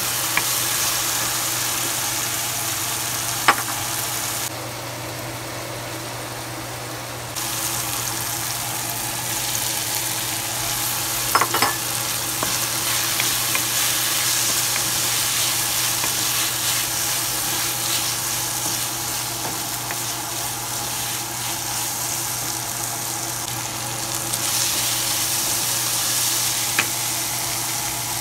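Minced mutton with onion, tomato and greens sizzling in an aluminium frying pan while a wooden spoon stirs it. Now and then the spoon knocks sharply against the pan.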